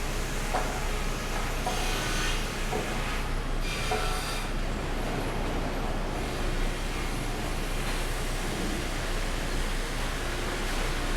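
Sawmill machinery running: a steady mechanical din with a few scattered knocks and brief bursts of hiss.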